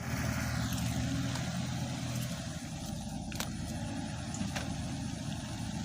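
Kubota KX91-3 mini excavator's three-cylinder diesel engine running steadily, its note easing down slightly in the first two seconds, with a couple of sharp metallic clicks around the middle.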